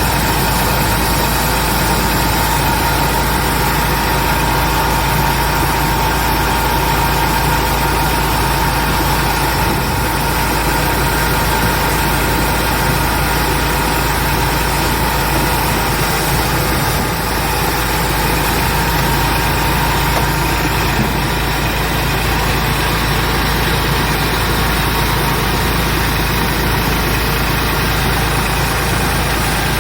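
Cabbage washing machine running steadily: a continuous mechanical drone with a low hum and a thin steady whine.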